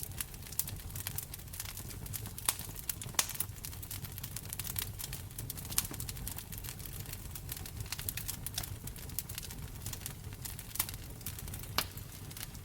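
Wood fire crackling in a fireplace: irregular sharp pops and snaps over a low steady rumble, with a few louder pops standing out, the largest about two and a half seconds in and near the end.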